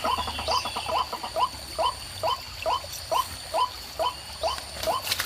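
White-breasted waterhen (ruak-ruak) calling: a long series of short, rising notes, about two to three a second, quicker at first.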